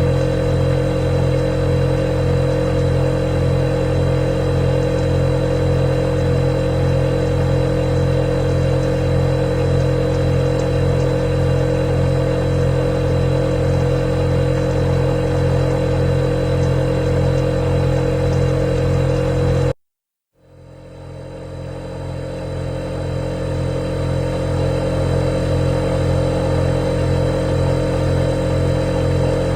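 Refrigerator running with a loud, steady hum made of several fixed tones over a low pulsing drone. About twenty seconds in it cuts out completely for half a second, then swells back to full over a few seconds.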